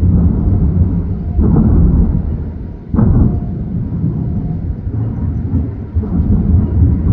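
Fireworks shells bursting in a run of low booms over a steady rolling rumble. Three sharper bursts stand out: one about a second and a half in, a louder one about three seconds in, and another near six seconds.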